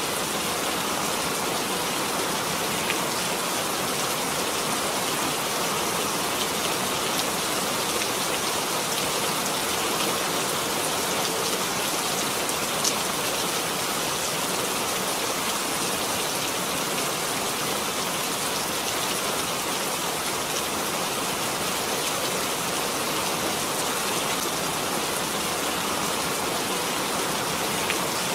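Steady rain falling and pattering on surfaces, an even hiss with a few faint single drop ticks.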